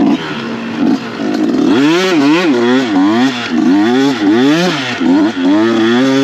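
Dirt bike engine revving up and down over and over as the throttle is worked, about twice a second from about two seconds in.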